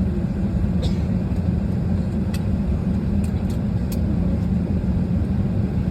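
Steady low hum and rumble inside a parked Airbus A320 cabin, the air conditioning running, with a few faint light clicks.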